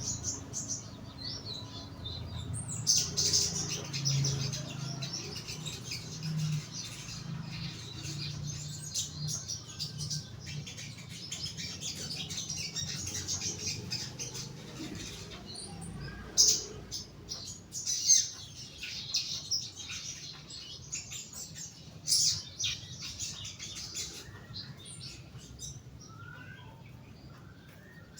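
A young sogon bird in its cage gives rapid, high chirping and twittering calls in dense runs, with a few louder sharp notes.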